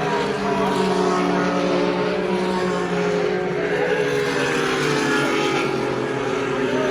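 IndyCar field's 2.2-litre twin-turbo V6 engines running steadily past on a pace lap, several cars at once, their overlapping engine notes shifting slowly in pitch at part throttle.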